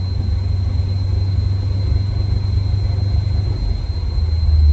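Car engine idling with a deep, steady rumble that grows louder near the end.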